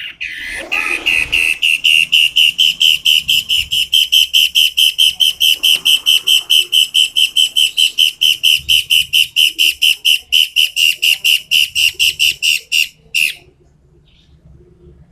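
A 'toed matahari' songbird giving a loud, sharp song: one long train of rapid, evenly repeated high whistled notes, about six a second, lasting some twelve seconds and ending with a single separate note.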